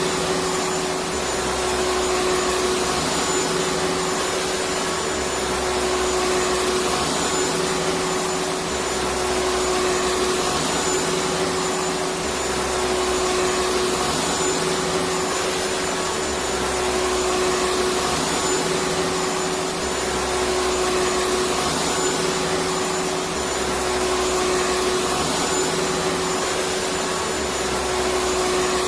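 Electric vacuum cleaner running steadily: a constant motor hum over an even rush of air, without a break.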